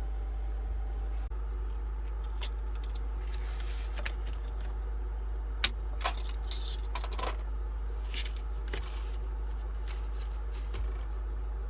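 Light clinks and taps of dishes and utensils being handled, with one sharper click about five and a half seconds in, over a steady low hum.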